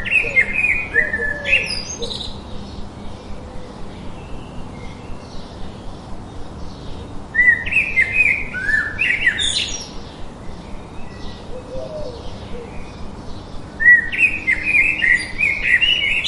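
A songbird singing: three bursts of a quick run of notes, each about two seconds long and roughly six seconds apart, with fainter chirps in between.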